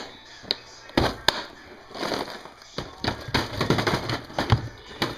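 Plastic tackle boxes being handled: latches and lids clicking and hard plastic crankbaits with treble hooks clattering, a run of sharp clicks that grows busier in the second half.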